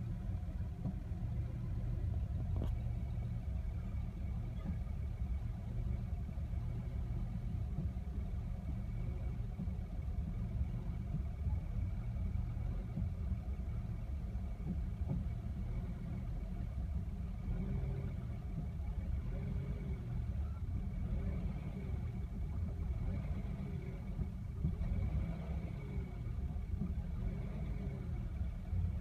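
1975 Mercedes-Benz 280S (W116) 2.8-litre twin-cam straight-six idling roughly, with a slow uneven wavering about every second and a half in the second half. Warm, it runs close to stalling.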